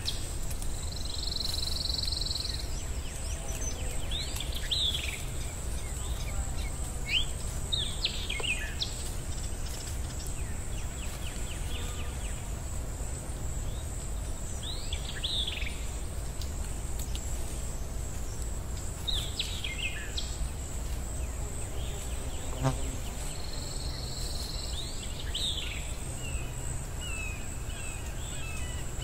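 Birds chirping: short falling calls every few seconds, over a steady high-pitched hum and a low background rumble.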